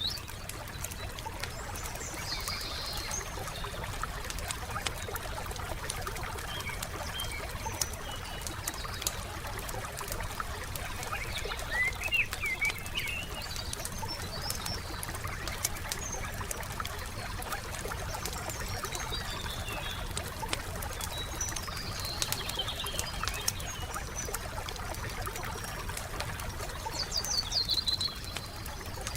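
Wood campfire crackling steadily with many small pops, while songbirds chirp in short phrases now and then, over a low steady rumble.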